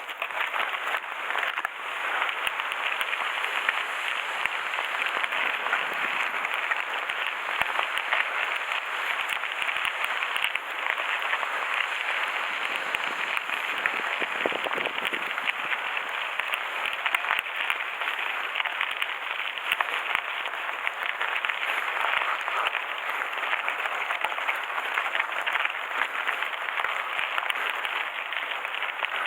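Mountain bike coasting fast downhill on a gravel forest road: a steady, dense crackle of tyres rolling over loose stones, with the bike's rattle.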